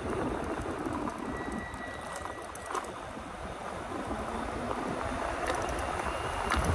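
Riding noise of an e-bike on 20x4 fat tires: a steady rumble of wind and tires on the road, with a couple of faint clicks.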